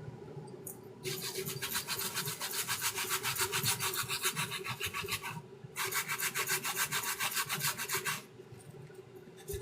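Fast back-and-forth rubbing strokes on a sneaker during restoration work, in two bursts of about eight strokes a second, with a short pause between them.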